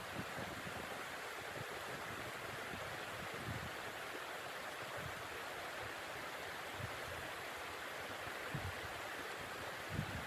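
Steady rushing of blizzard wind, with irregular low buffeting thumps of gusts, the strongest near the end.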